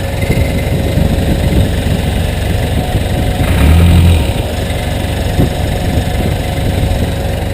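Caterpillar 428B backhoe loader's diesel engine running steadily, with a brief louder, deeper swell about three and a half seconds in as it takes load. A couple of short knocks from the machine are heard.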